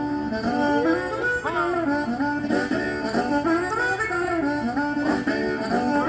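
Harmonica playing a blues tune, a quick run of held and changing notes with a bent note about a second and a half in.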